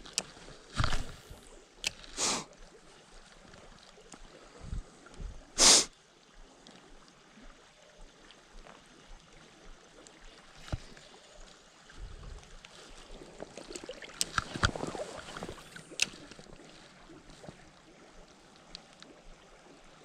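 River water sloshing and trickling around a wading angler, with a few short, louder splashes: about a second in, near two seconds, the loudest near six seconds, and a cluster around fourteen to fifteen seconds.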